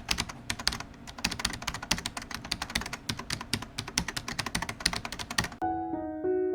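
Rapid keyboard typing, a fast run of sharp clicks, that stops suddenly near the end as a piano melody begins.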